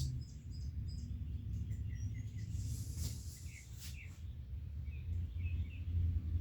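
Birds chirping in short, scattered calls over a steady low background rumble, with a couple of faint clicks about three and four seconds in.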